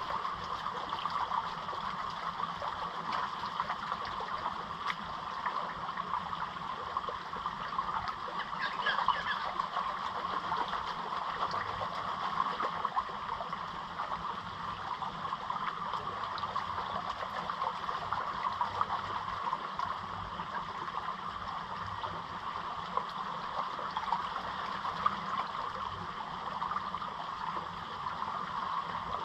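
Steady rush of fast-flowing water running down a creek gully.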